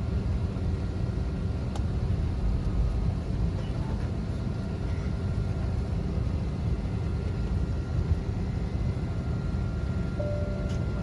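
Steady low rumble of a jet airliner's running engines and air systems, heard from inside the passenger cabin while the plane waits on the ground before takeoff.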